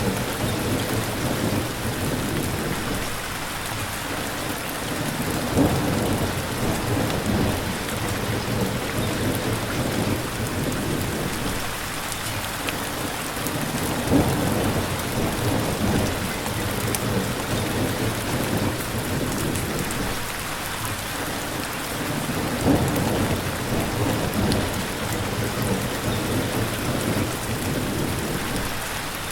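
Steady heavy rain with thunder rumbling underneath, swelling to three sharper cracks about 6, 14 and 23 seconds in.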